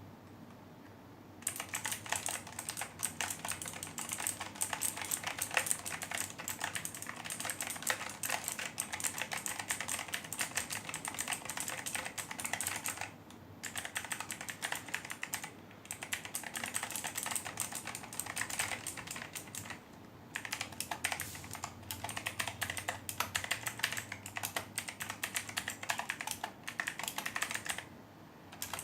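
Fast, continuous typing on a Logitech G512 Carbon mechanical keyboard with GX Blue clicky switches: a dense stream of sharp key clicks that starts about a second and a half in, broken by a few short pauses.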